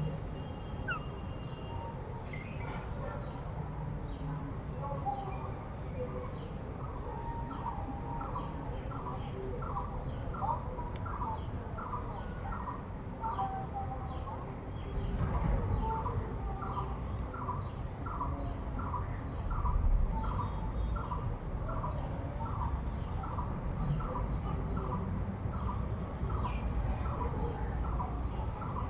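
Insects droning steadily at a high pitch while a bird repeats a short chirping note over and over, about one and a half times a second, starting a few seconds in. A low rumble runs underneath, swelling twice.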